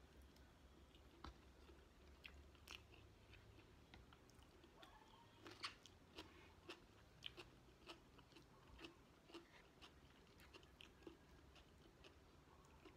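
A person chewing food, faint moist mouth clicks and small crunches that settle into about two chews a second in the second half.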